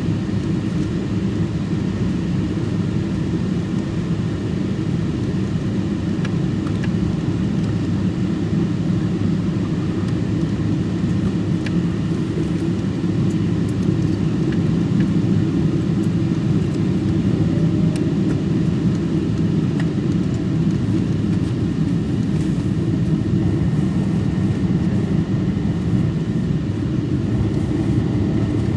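Steady low drone of a Boeing 777-200's engines and airflow heard inside the passenger cabin in flight.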